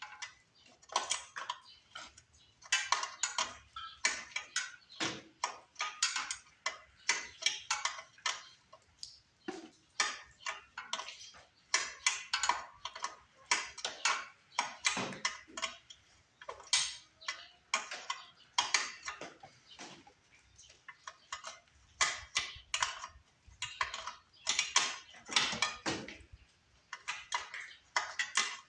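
Ratchet wrench clicking in repeated short strokes, a burst of quick ticks about every second or two.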